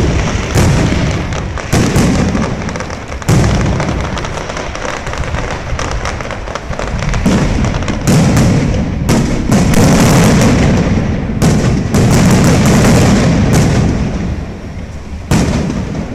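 A fireworks show barrage: aerial shells bursting in quick succession, a dense run of booms and crackles over a constant low rumble. Several louder bangs stand out, the last near the end as the barrage thins.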